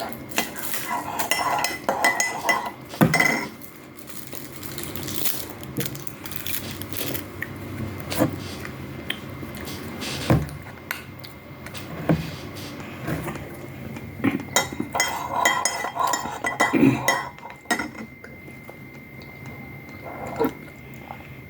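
Metal cutlery clinking and knocking against dishes in a string of small irregular taps, with clusters of ringing clinks about a second in and again around fifteen seconds in.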